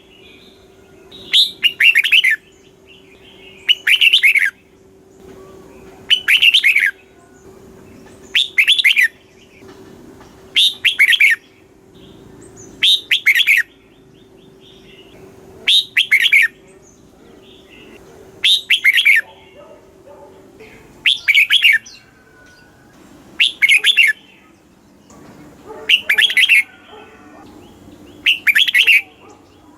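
Red-whiskered bulbul singing: a short, bright, warbling song phrase repeated about every two seconds, about a dozen times. A faint steady hum underneath stops about two-thirds of the way through.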